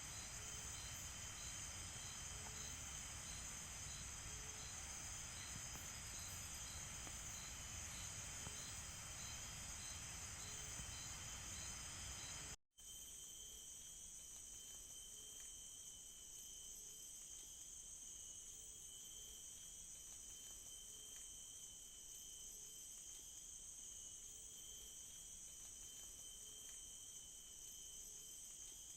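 Night chorus of crickets and other insects in tropical forest: a steady high shrilling, with a regular chirp about twice a second and a soft low call repeating about once a second. About halfway through the sound cuts out for a moment and comes back slightly quieter.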